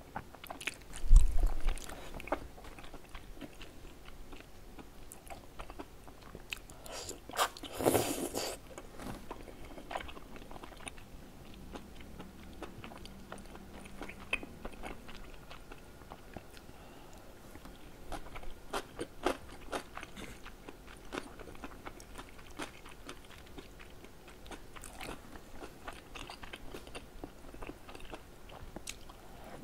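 Close-miked eating sounds of cheese tteokbokki: wet chewing of chewy rice cakes and melted cheese, with many small mouth clicks. A low thump comes about a second in and a louder, noisier mouthful about eight seconds in.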